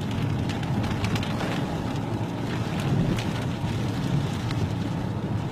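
Steady low rumble of a vehicle driving through wind and rain, with wind buffeting the microphone and faint scattered ticks.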